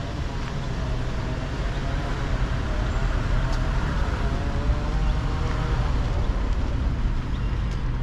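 Street traffic: a motor vehicle's engine running close by with a steady low hum, and traffic noise swelling up in the middle as vehicles pass, then easing off.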